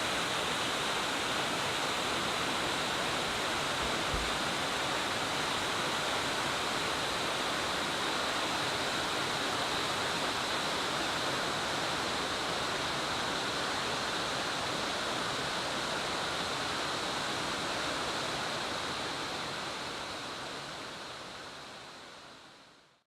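Sakuradaki Falls' water pouring down in a steady, unbroken rush, fading out over the last few seconds.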